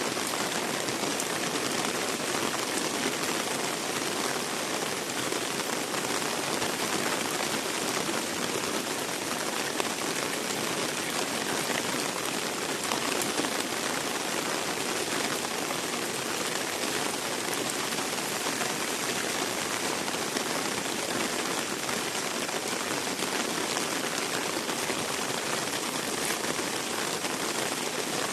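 Heavy rain falling steadily, a dense even patter of drops on wet surfaces.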